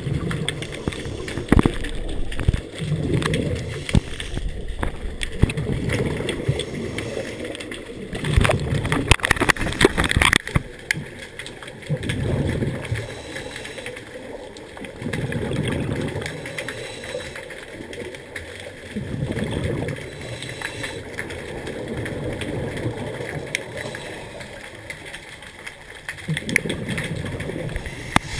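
Scuba diver breathing through a regulator underwater: bursts of exhaled bubbles gurgling up every three to four seconds.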